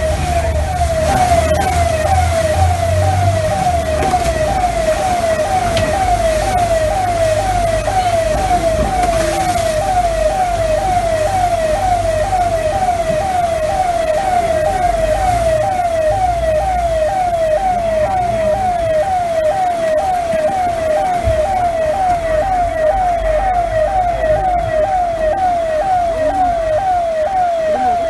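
A siren sounding a rapid, evenly repeating falling tone, over a low rumble.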